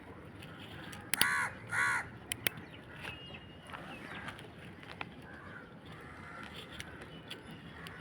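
Two loud, harsh bird calls about half a second apart, followed by a few light clicks.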